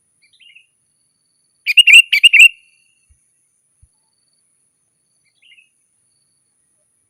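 Sooty-headed bulbul (kutilang) singing: a loud burst of several quick, bubbly notes about two seconds in, with a faint single note just before and another near the end.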